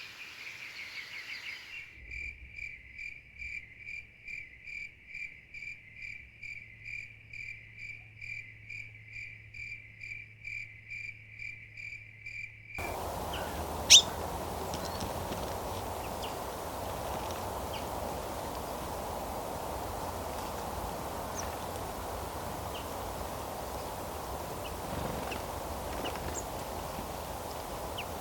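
A high, cricket-like chirp pulses evenly about twice a second for roughly ten seconds. It then cuts abruptly to a steady outdoor background hiss with scattered faint bird chirps and one sharp, loud click.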